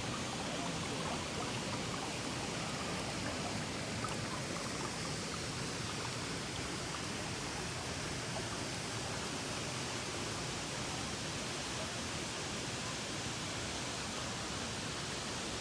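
Steady rushing of a waterfall, an even hiss of falling water with no change throughout.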